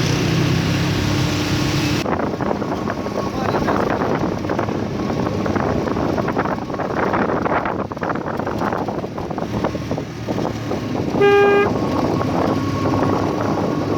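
Road vehicle and traffic noise, with one short vehicle horn toot about eleven seconds in.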